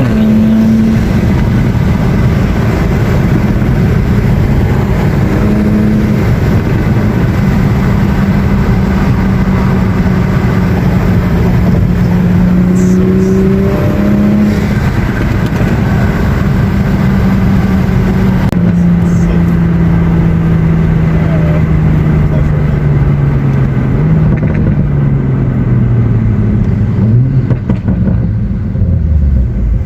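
Toyota GR Supra (MK5) engine and exhaust heard from inside the cabin, a loud steady drone. Its pitch steps up a few times in the first half, then sinks slowly through the second half and drops near the end as the car slows.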